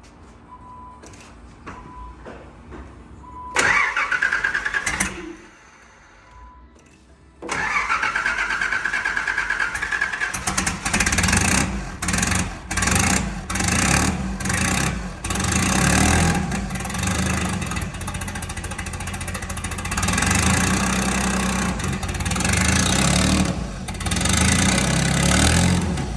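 Starter motor cranking a 1988 Nissan 300ZX engine without it catching. First there are a few faint beeps, then a short crank and a pause. From about 7 s comes a long crank: a steady starter whine at first, then an uneven chugging cranking until the end.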